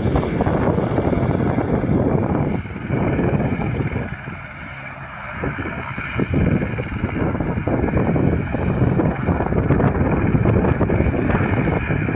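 Helicopter running close by, heavily mixed with wind buffeting the microphone; the noise drops briefly about four seconds in, then comes back.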